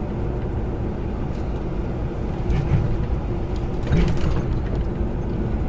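Steady engine and road noise inside a semi-truck's cab while driving.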